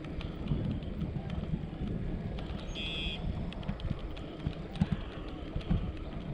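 Wind buffeting the microphone and the low rumble of a bicycle ride, with irregular thumps. A short high call sounds once, about three seconds in.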